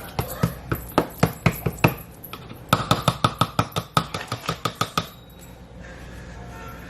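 A utensil clinking rapidly against a bowl as food is mixed, about five clinks a second with a slight ringing, stopping about five seconds in.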